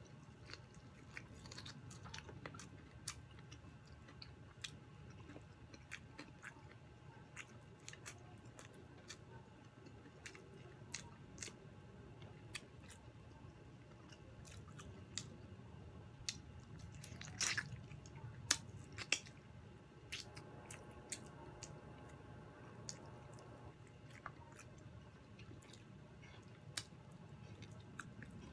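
A person chewing and eating fried chicken and rice by hand: wet chewing with many scattered sharp clicks and crunches, and a cluster of louder crunches a little past halfway.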